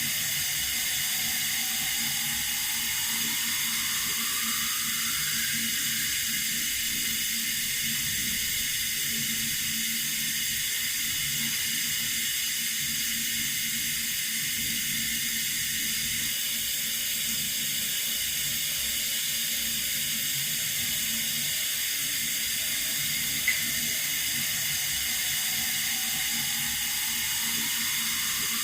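Water running steadily from a tap, an even hiss. A faint rising whine sweeps up near the start and again near the end, and a single brief click comes about 23 seconds in.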